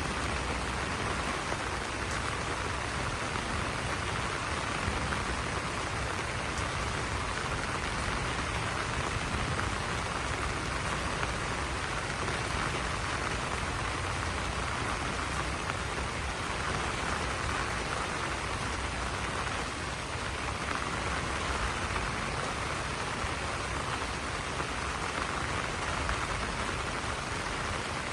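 Steady rain falling on banana leaves: an even, dense hiss that stays the same throughout.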